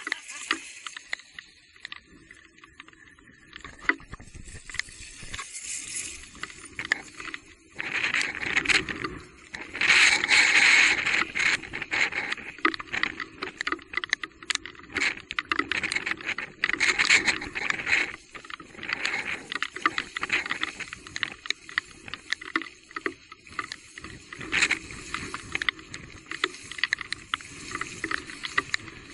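Bicycle riding noise on a wet trail: irregular rattling, clicking and tyre noise, with louder rushing stretches about a third of the way in and again a little past halfway.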